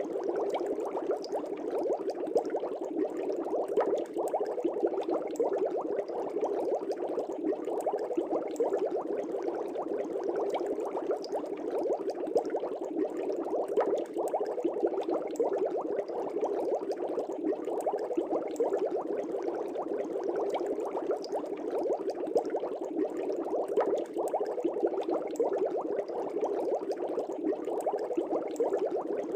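Aquarium air bubbles rising and breaking at the water surface: a steady, dense bubbling with a scatter of small pops.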